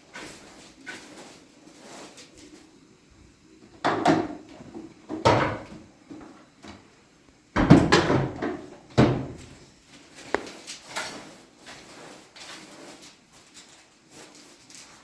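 Knocks and clunks of things being handled, like a door, drawer or cupboard being worked. Several loud sharp thumps come between about four and nine seconds in, with lighter clicks around them.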